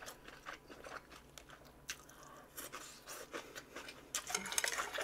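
Close-miked chewing and small mouth clicks of someone eating: scattered faint smacks, busier and louder in the last second.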